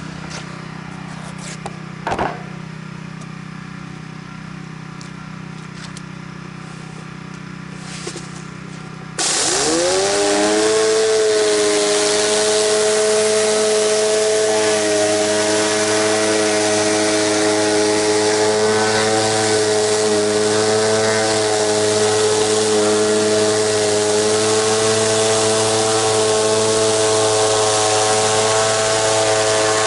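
Gas-engine pressure washer idling with a low hum, then about nine seconds in it suddenly goes loud, its pitch sweeping up and settling into a steady high-speed run over the hiss of the spray.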